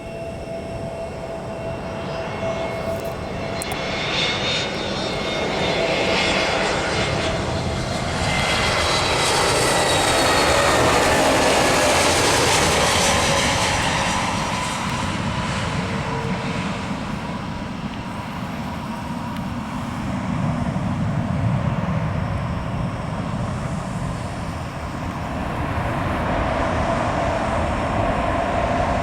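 Airbus A320neo airliner's jet engines on landing. The engine roar and whine build as it passes, loudest about eleven seconds in, and the whine drops in pitch as it goes by. A rumble follows and swells again near the end.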